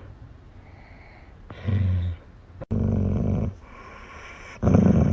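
A dog growling low, in three bouts of roughly half a second to a second and a half each, the last running on past the end.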